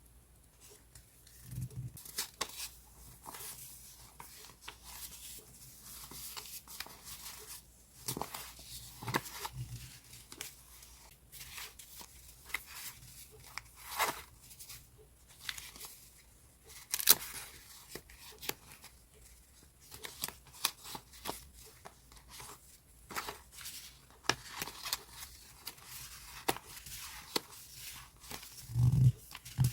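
Paper and stationery being handled: sheets rustling, crinkling and sliding against each other in short irregular bursts, with a few soft thumps and a sharp click about halfway through.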